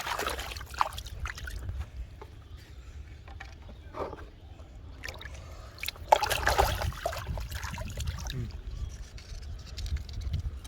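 Water splashing and sloshing in bursts, loudest about six seconds in, over a steady low rumble.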